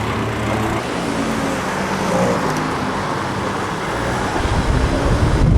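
Car engine and traffic noise: a steady low hum that swells into a louder rumble about four seconds in.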